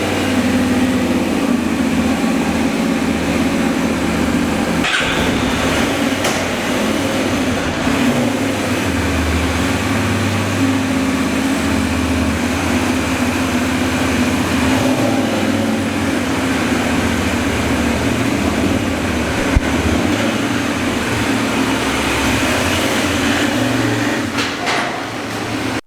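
Benelli 752S motorcycle's parallel-twin engine running steadily, a constant low rumble with a steady hum.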